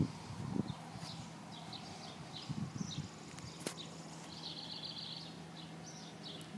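Small birds chirping in short, repeated high calls, with a brief buzzy trill near the middle and a single sharp click. Low rumbling noise comes near the start and again around three seconds in.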